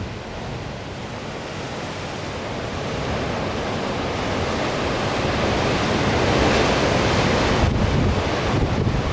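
Sea surf rushing and breaking in a strong wind, with wind buffeting the microphone in a low rumble. The wash builds gradually, loudest in the second half.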